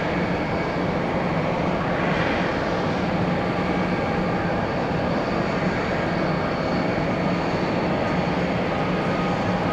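Jet airliner's engines running steadily: an even rush of noise with a few faint high tones held on top.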